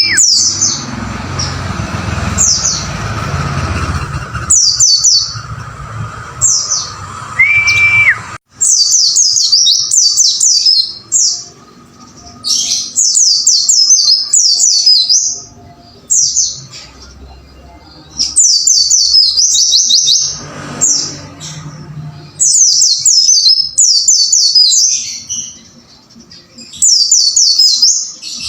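White-eyes (pleci) singing: rapid, high twittering phrases of quick falling chirp notes, repeated again and again with short gaps. For the first eight seconds a steady background noise and a held whistle-like tone lie under the song, then the sound cuts abruptly to cleaner song.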